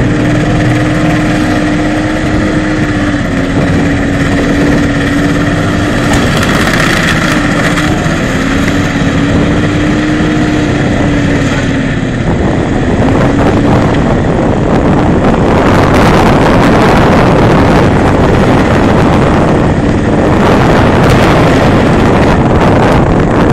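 Holden Commodore VT V8 held at high revs during a burnout, rear tyres spinning. The engine note holds steady with small dips for about the first half, then a louder rushing noise takes over, with wind on the microphone.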